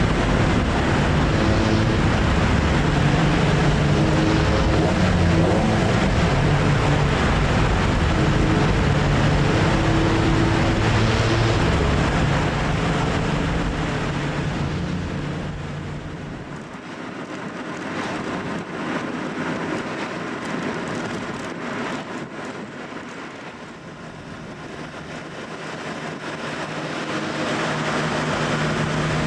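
Classic car engine and exhaust on the road: a steady engine note for the first dozen seconds or so, fading away through the middle, then building up again near the end.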